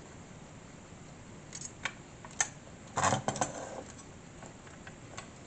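Small parts and a tool being handled on a work surface during model assembly: a few light clicks, then a louder short clatter about three seconds in.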